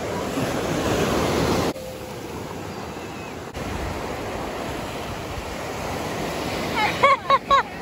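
Ocean surf washing onto a beach: a steady rush of breaking waves that drops abruptly about two seconds in and shifts again a little later. Near the end come a few short, high-pitched calls.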